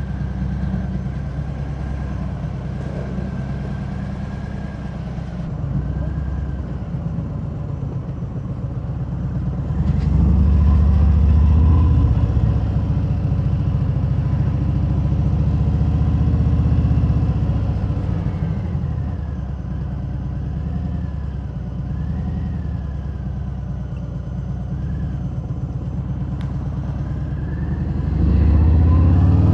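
Harley-Davidson Fat Bob's V-twin engine through Vance & Hines Hi-Output slip-on mufflers with the quiet inserts removed, heard from inside the rider's helmet on the move. It runs steadily, grows louder about ten seconds in, eases back, and grows louder again near the end.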